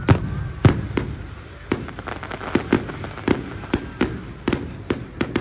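Fireworks going off: a quick, irregular string of about a dozen sharp bangs over a steady background hiss.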